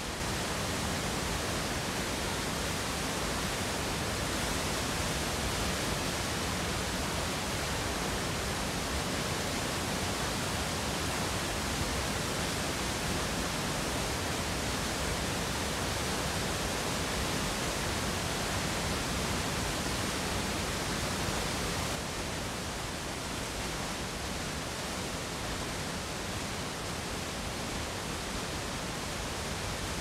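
Large waterfall rushing: a steady, dense hiss of falling water, dropping slightly in level about two-thirds of the way through.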